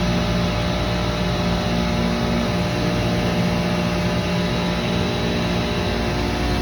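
Commercial chiller running steadily with a constant mechanical hum: compressor and condenser fans, likely including the circuit 1 compressor forced on by its contactor being pushed in by hand. That circuit has been cutting off on low pressure.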